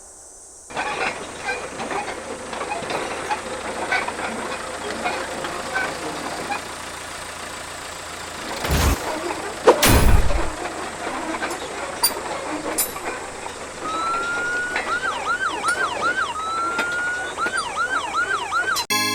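An ambulance siren comes in about two-thirds of the way through: a tone rises and holds, then a run of quick falling sweeps follows, and the pattern repeats. Before it there is a busy noisy background with two loud rushing noises about halfway through.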